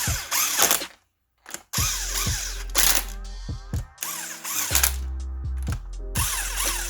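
A beat track with a steady deep bass plays over repeated bursts of a ratcheting tool running the ARP head-stud nuts down on the RB25's cylinder head. The sound cuts out completely for about half a second, about a second in.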